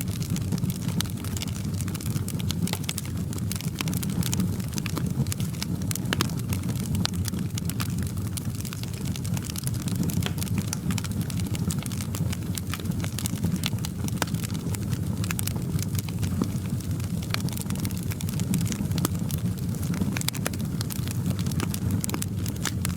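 Wood fire crackling in a fireplace: a steady low rumble of flames with constant irregular pops and snaps.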